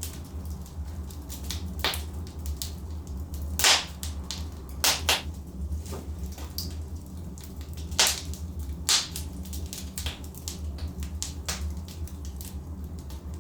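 Wood fire crackling: irregular sharp pops and snaps from burning logs over a steady low rumble of the flames, with the loudest pops a few seconds in and around eight seconds.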